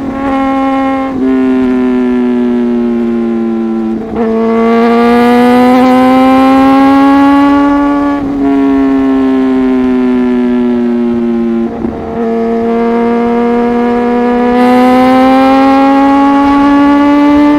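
Inline-four superbike engine running at high revs through an aftermarket exhaust, a strong steady note whose pitch slowly rises and falls as the throttle changes. The note dips briefly every few seconds.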